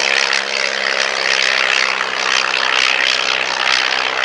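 Propeller-driven vintage light aircraft flying past during an air race, its piston engine running in a steady, loud drone.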